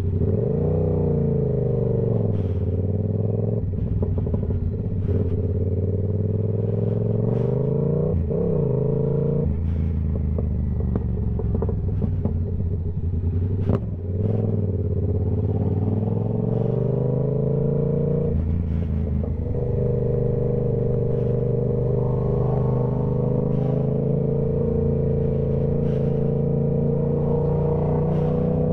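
A Yamaha YZF-R7's 689 cc parallel-twin engine through a Toce full exhaust system, heard from the rider's position. The revs climb and drop repeatedly with sharp falls at the shifts, and there is a brief lift off the throttle about fourteen seconds in. The engine settles into a steady cruise for the last third, with light clicks scattered throughout.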